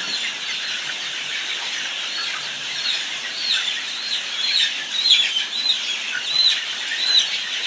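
A shed full of young chickens peeping continuously: many short, high, falling peeps overlapping, louder from about the middle of the stretch onward.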